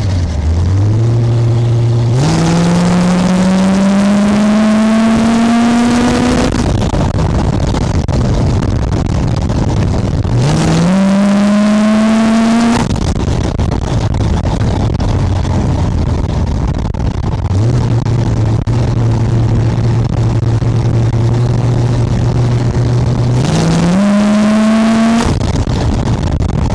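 V8 engine of a chopper trike revving up three times, its pitch climbing steadily each time and then dropping back to a steady, lower running note.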